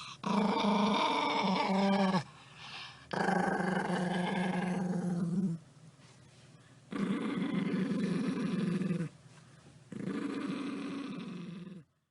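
An angry dog growling: four long, low growls of about two seconds each, with short pauses between them.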